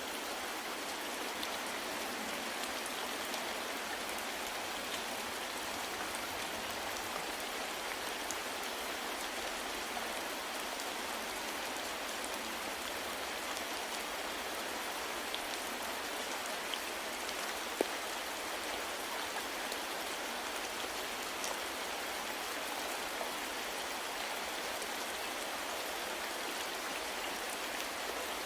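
Steady soft rain falling, with scattered drop ticks and one sharper tick a little past halfway.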